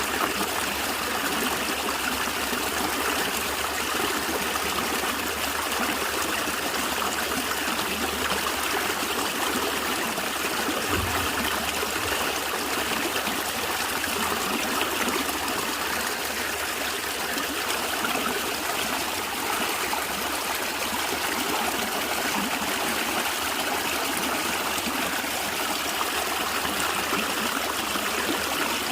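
Natural stream of water flowing and gurgling steadily over rocks. About eleven seconds in there is one brief low thump.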